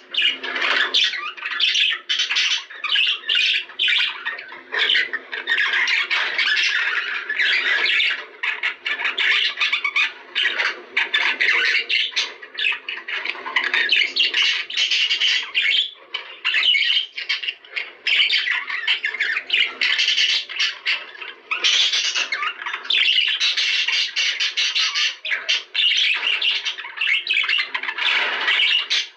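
Budgerigars chattering and squawking, many calls overlapping in a continuous, busy din.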